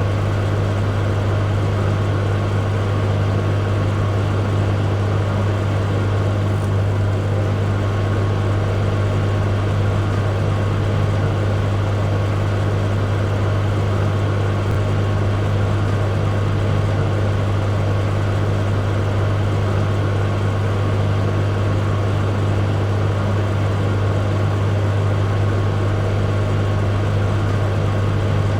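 Microwave oven running: a steady low hum with a fan-like whir, unchanging throughout.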